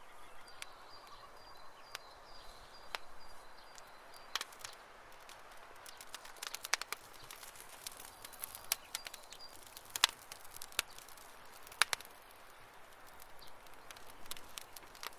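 Wood campfire crackling: irregular sharp pops and snaps, a few louder ones around the middle, over a soft steady hiss. A faint, thin, high steady tone runs through roughly the first half.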